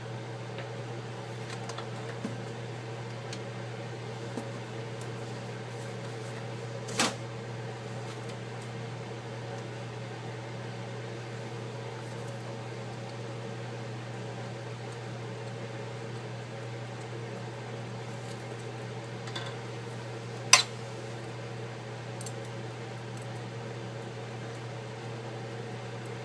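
Steady low hum of a running electric motor or fan, with two sharp clicks, one about a quarter of the way in and a louder one near the end.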